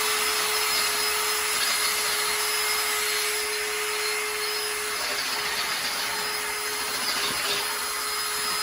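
Handheld power tool running at a steady speed, its motor whine constant under a rasping cutting noise, as it enlarges a hole.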